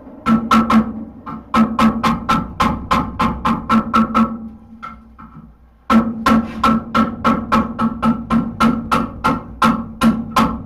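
Hammer blows on hot steel over an anvil, about four a second, each with a clear ringing tone, as a horseshoe is drawn out into a hoof pick. The hammering stops about four seconds in and starts again about two seconds later.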